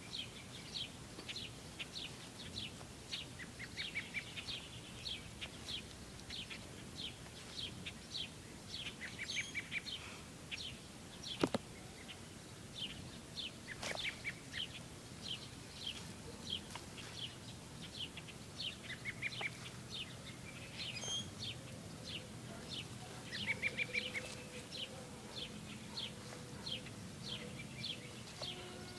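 Birds chirping: a steady run of short, high chirps at about three a second. A single sharp click cuts in near the middle.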